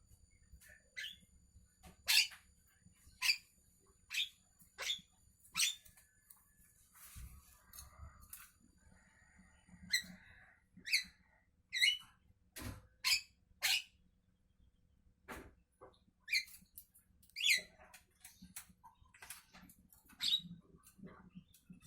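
Javan myna calling: a series of short, sharp notes, roughly one a second, with a softer stretch of quieter chatter in the middle.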